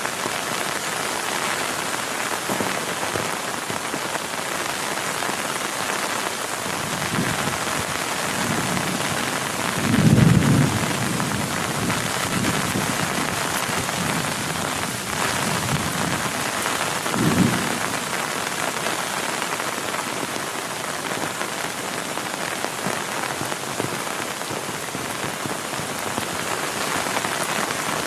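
Heavy rain falling steadily. Thunder rumbles low from about seven seconds in, loudest about ten seconds in, with a shorter rumble about seventeen seconds in.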